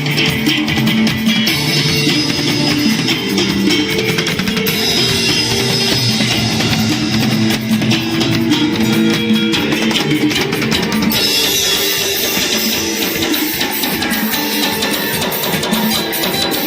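A pop band playing an instrumental passage at a sound check: guitar over a drum kit, with busy cymbals throughout.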